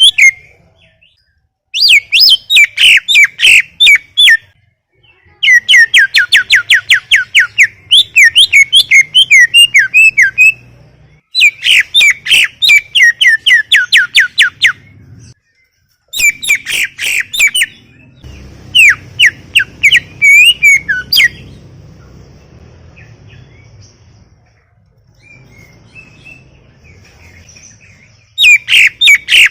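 A green leafbird (cucak ijo) singing at full volume in loud, rapid phrases of sweeping chattering notes, several notes a second. The phrases last a few seconds each, with short pauses between them. Near the end there is a quieter stretch before the song starts again.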